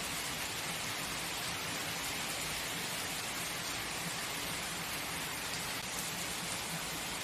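Steady heavy rain falling on a surface, an even hiss with faint individual drop ticks.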